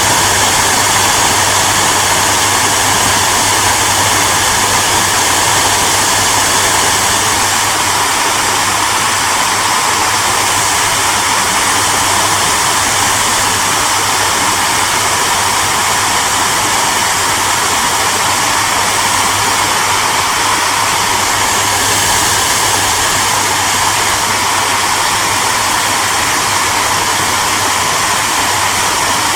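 Electric hairdryer running continuously: an even, loud rush of airflow over a steady low motor hum.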